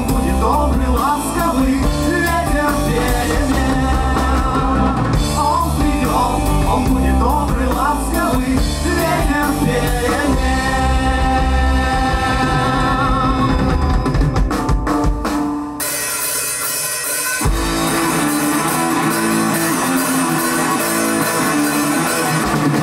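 Rock band playing with drums, guitar and singing. About sixteen seconds in, the bass and drums drop out briefly and come back a second and a half later.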